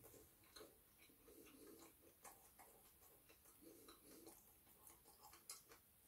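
Near silence, with faint chewing of kebab meat and chips and scattered small soft clicks at an uneven pace as a man eats with his mouth closed.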